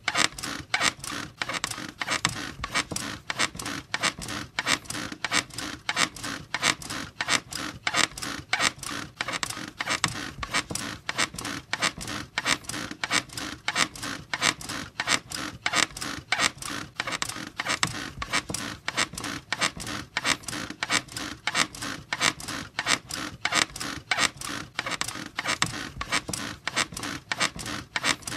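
Bed squeaking in a steady, even rhythm: a continuous train of short creaks from the bed, repeating several times a second without a break.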